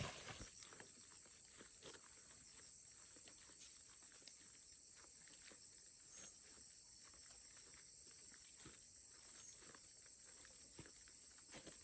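Near silence: faint outdoor ambience with a steady high-pitched hiss, scattered faint ticks, and one sharper click near the end.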